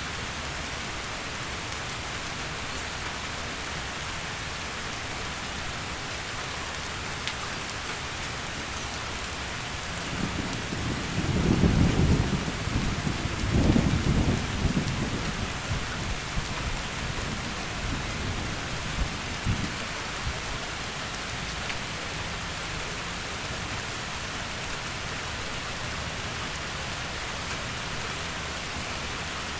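Heavy rain falling steadily, with a low rolling thunder rumble that builds about a third of the way in, peaks twice, and dies away by about two-thirds through.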